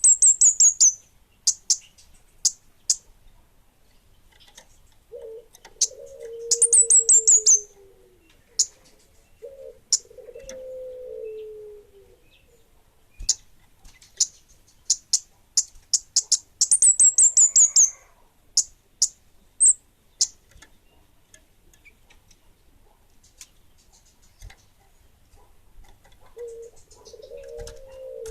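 A kemade bunga api songbird singing in full voice: bursts of very high, rapid chirps that run down into a falling trill, three times, with sharp single chips in between. Lower falling calls come in between the bursts.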